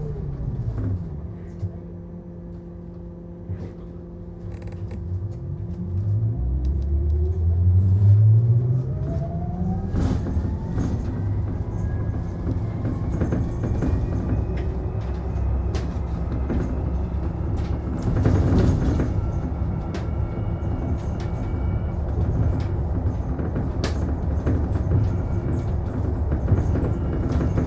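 Interior running sound of a Mitsubishi Fuso Aero Star Eco Hybrid city bus: the motor whine falls as the bus slows, a steady lower hum holds for a few seconds, then the whine climbs as it pulls away and settles into steady driving noise with body rattles and clicks.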